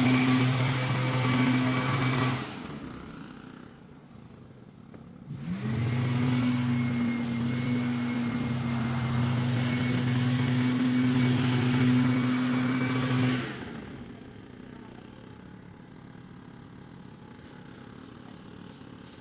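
An engine held at a steady high speed. It drops away a couple of seconds in, revs back up about five seconds in, runs steadily, then drops away again a little past the middle.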